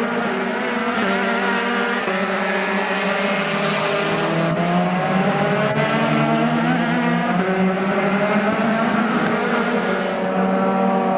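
Several Dallara F312 Formula 3 race cars' engines running at once at different pitches, some rising in pitch around the middle as they accelerate.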